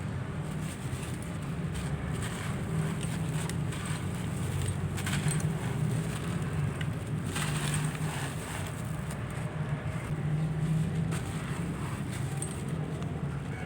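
Dry, gritty handmade blocks crumbling, with scattered crackles and crunches, clustered about a third of the way in and again past the middle. A steady low rumble runs underneath, like a vehicle or engine nearby.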